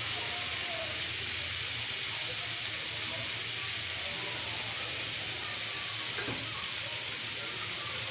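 Marinated chicken pieces frying in hot oil in a frying pan, left to brown on one side: a steady sizzling hiss.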